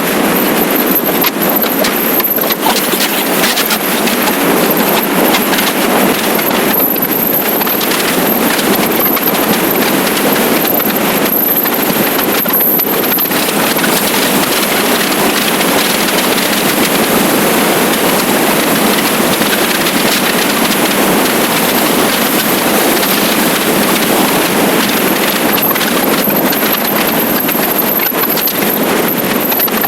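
Steady rush of wind and road noise from a motorcycle ride at speed, with no clear engine note.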